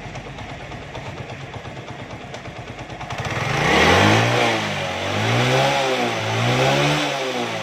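Motorcycle engine idling slowly and steadily, then revved up and let back down about three times from about three seconds in. Its carburetor idle speed and air-fuel mixture screw have just been set, and it runs smoothly with the jerking gone.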